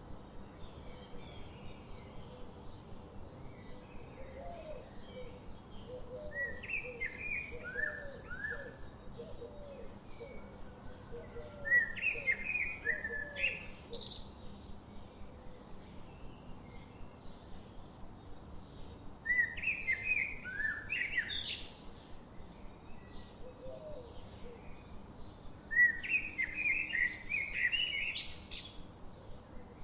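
Birdsong: a bird sings a short, quick phrase of rising and falling notes four times, roughly every six to seven seconds. Behind it are fainter, lower repeated calls in the first half and a steady background hiss.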